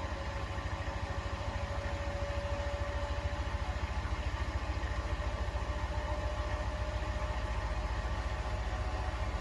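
Beko WTK104121A washing machine drum spinning at speed, a steady motor whine over a fast, even low throb.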